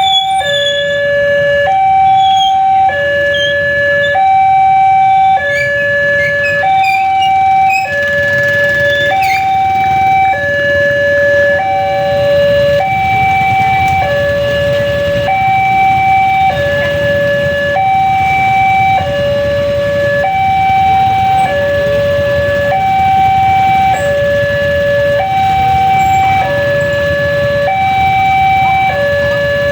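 Railway level-crossing warning alarm sounding continuously: an electronic two-tone signal alternating between a low and a high pitch, each held for about a second, warning that a train is approaching, over a low rumble.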